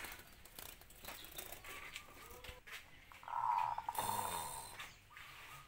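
Caged birds calling at a bird sale, with one louder call lasting under a second about three seconds in, amid scattered small clicks.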